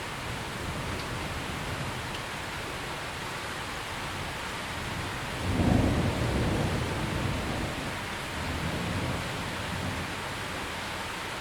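Steady rain with a roll of thunder that breaks in about halfway through, loudest at first and rumbling away over several seconds.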